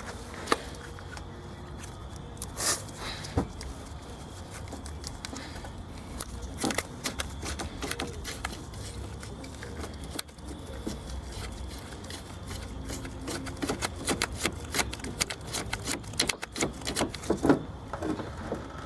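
Irregular metallic clicks, taps and scrapes of tools working loose the oil line fittings on a Corvair engine, with a clustering of clicks near the end.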